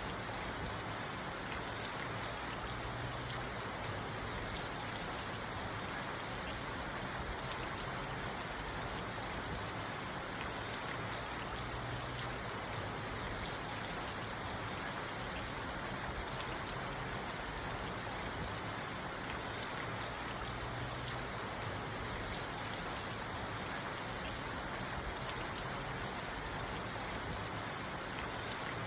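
Steady rain falling on a parked car, heard from inside the cabin.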